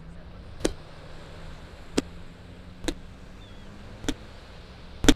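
A ball being struck back and forth in a beach ball game: five sharp knocks about a second apart, the last the loudest, over a steady low background hum.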